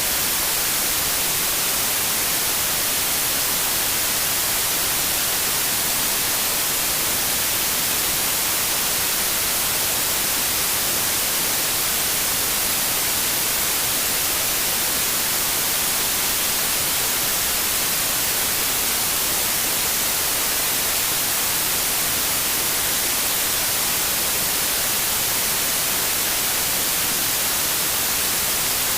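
Synthetic white noise: a steady, even hiss with most energy in the high frequencies, unchanging throughout.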